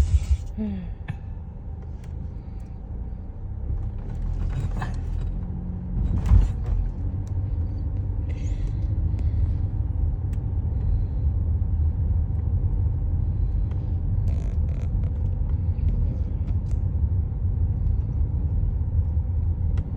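Steady low rumble of a car's engine and road noise heard inside the cabin while driving slowly, with a single thump about six seconds in.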